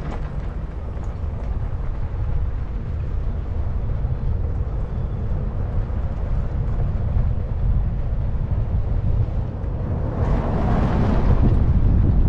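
Wind buffeting the microphone outdoors, a steady low rumble, with a stronger gust rushing through about ten seconds in.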